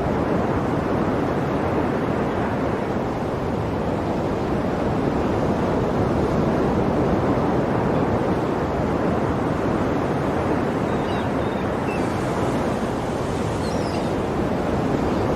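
Ocean surf washing in a steady, continuous rush.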